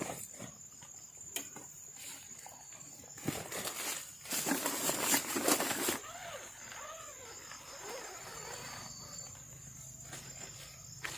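Night-time tropical forest insects keeping up a steady high-pitched chirring. It is broken by scattered clicks and knocks and a louder rustling burst about four seconds in.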